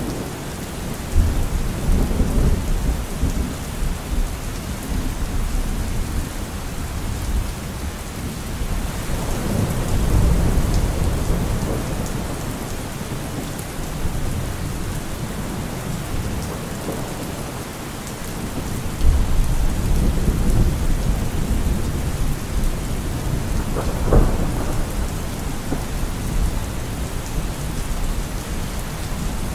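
Steady rain falling, with thunder rumbling in several long swells and a sharper crack near the end.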